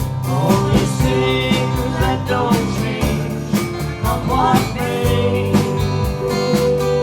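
Live country-folk band playing: strummed guitar and steady bass with a melody line over them, with no lyrics recognised.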